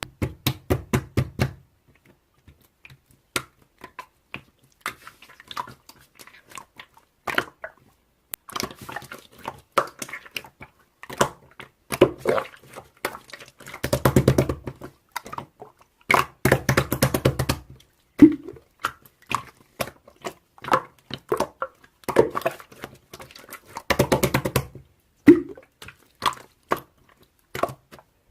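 Slime being squished and pressed by hand, giving rapid trains of clicking pops and squelches in bursts of a second or two, with short pauses between.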